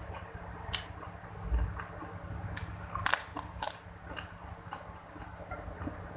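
Close-miked eating sounds: chewing and crunching food, with a run of sharp crisp clicks, the loudest cluster about three seconds in.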